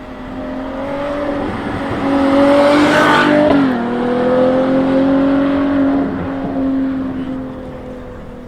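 A high-performance car engine accelerating past, loudest about three seconds in, its note dropping in pitch just after and then holding steady as it fades away.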